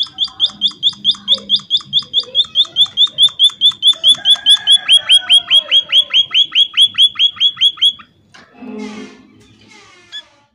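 Emprit (munia) calling: a loud, fast series of sharp downward-slurred chirps, about five a second, that stops abruptly about eight seconds in. A few softer scratchy notes follow.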